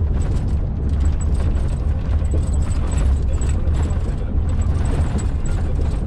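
Steady low drone of a truck's engine and tyres on the worn original road surface, heard from inside the cab.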